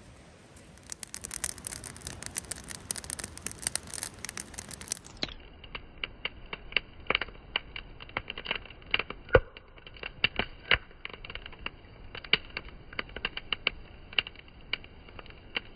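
Wood fire crackling and popping in irregular snaps, thick for the first few seconds and sparser after.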